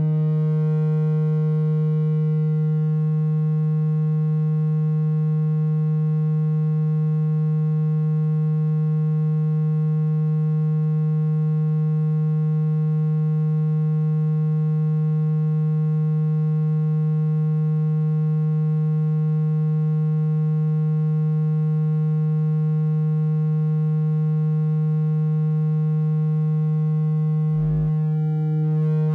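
Steady, low, buzzy electronic tone of the kind played through a phone speaker to shake water out of it. It holds one pitch throughout, breaks briefly with a click near the end, then a rising sweep starts.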